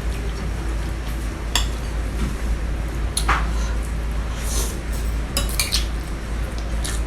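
Cutlery clinking and scraping on a plate and bowl during a meal: a few sharp clinks, and short scraping or eating noises in between. A steady low hum runs underneath.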